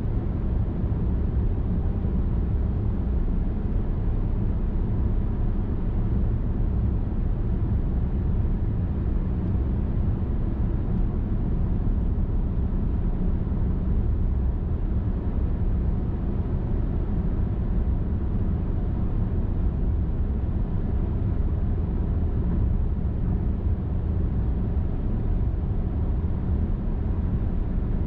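Car driving at a steady highway speed: an even, low rumble of tyre and engine noise with no change in pace.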